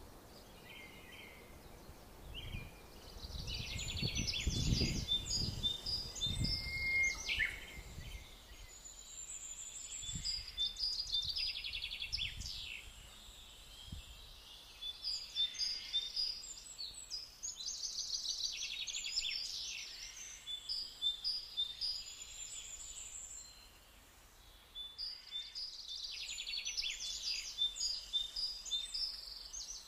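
Small birds singing in repeated, chirpy song phrases a few seconds long, with short pauses between them. A low rumble sits underneath for the first eight seconds or so.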